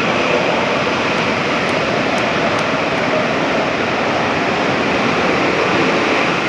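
Twin-engine F/A-18 Super Hornet jets running in afterburner during a formation climb: a loud, steady jet roar with no break.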